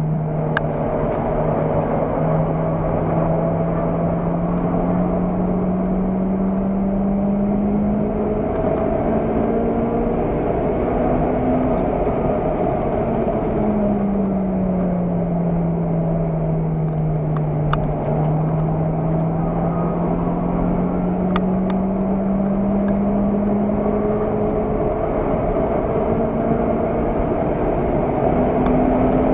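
Car engine and road noise heard from inside the cabin while driving fast on a circuit. The engine note climbs slowly, drops sharply about halfway through, then climbs slowly again.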